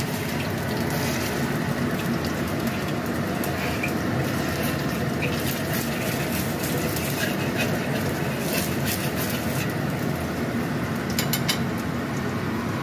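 Minced fish paste frying in oil in an iron wok over medium heat: a steady sizzle, with a few short clicks and crackles near the end.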